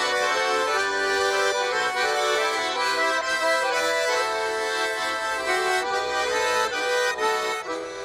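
Accordion playing an instrumental break of a Russian folk-style song: a melody of held notes over sustained chords, with no singing.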